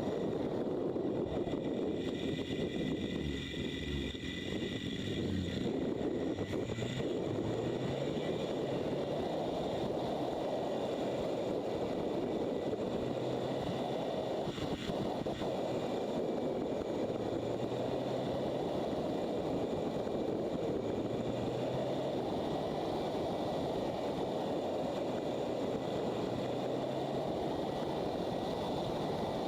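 Motorcycle riding along with heavy wind rush over the microphone. The engine note underneath rises in short climbs several times as it pulls through the gears.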